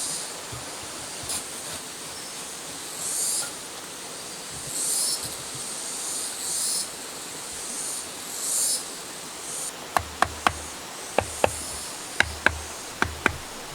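Wood being worked by hand: short rasping strokes repeat about every second and a half, then from about ten seconds a series of about nine sharp knocks, each with a brief ring.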